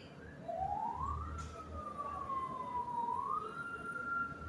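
A distant siren wailing, one clear tone rising, slowly falling and rising again.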